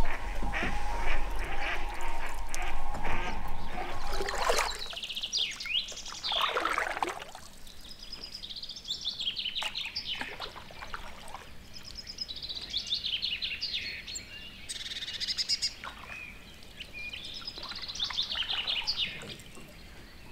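Wild birds calling in the early-morning quiet. In the first four seconds there is a quick run of repeated calls over a low steady hum. Then come a couple of long calls sweeping steeply down in pitch, then recurring bursts of high chirping song.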